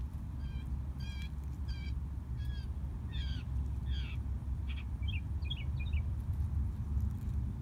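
A bird calling: a run of about eight short, harsh notes roughly half a second apart, then a quicker chatter of short notes, over a steady low rumble.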